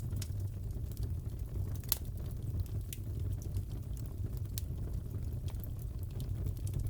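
Fireplace crackling: a steady low rumble of the fire with scattered sharp pops and crackles, the loudest about two seconds in.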